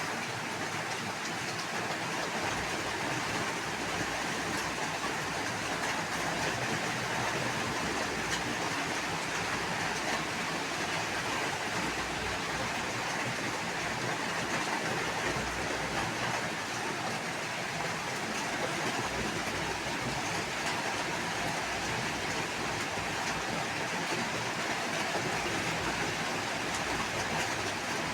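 Steady rushing water, an even unbroken hiss with no rhythm or pauses.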